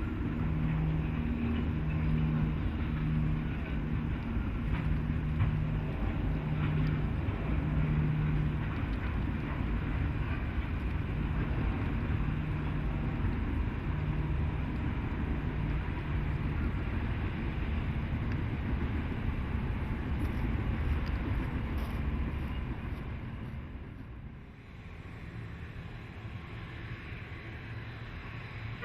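Diesel freight locomotives rumbling, with a low throbbing engine note in the first several seconds and wind on the microphone; the rumble dies down near the end.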